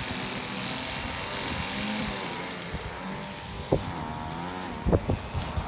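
Small petrol engine of lawn-care equipment running, its speed wavering up and down, with a few short sharp knocks in the second half.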